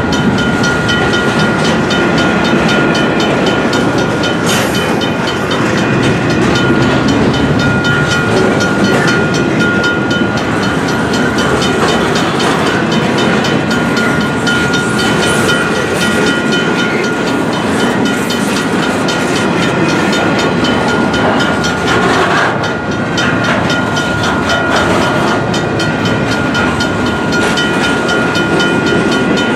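Double-stack intermodal freight train of loaded well cars rolling past: steady rumble and clatter of steel wheels on rail, with a steady high-pitched squeal running through it.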